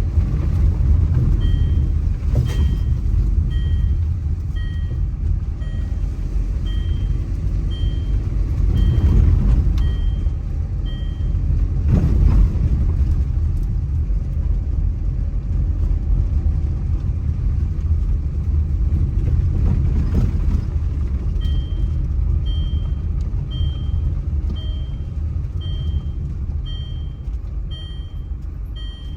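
Steady low rumble with a short, high note repeated about one and a half times a second in two long runs, typical of a songbird calling over and over.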